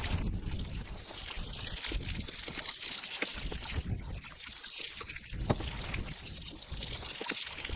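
Water running out of an RV's 6-gallon water heater tank through its open drain port, a steady trickling pour as the tank is drained for winterizing.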